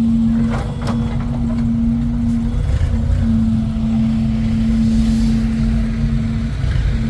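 Motor vehicles running: a low engine rumble with one steady droning hum that drops out briefly twice.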